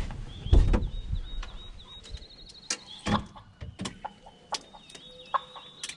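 Turkey clucking and purring in short, repeated, wavering high notes, with a heavy bump of handling noise about half a second in and scattered clicks.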